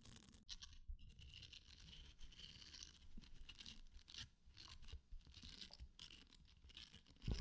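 Faint, close-miked scratching and rubbing on a surface, in a series of soft repeated strokes.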